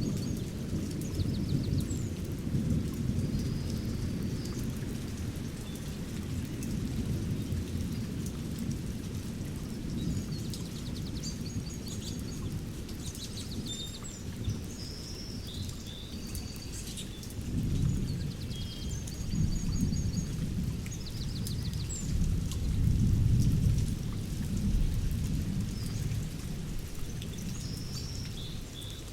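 Thunderstorm recording: steady rain with low rolling thunder that swells several times, mostly in the second half, and small birds chirping over it.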